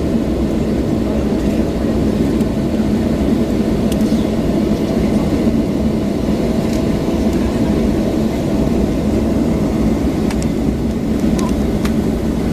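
Steady low rumble inside the cabin of a Boeing 737-800 airliner, with a few faint clicks.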